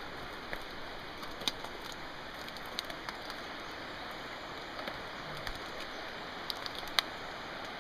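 Steady rush of running water from a stream, with a few scattered sharp clicks and snaps over it, the loudest about seven seconds in.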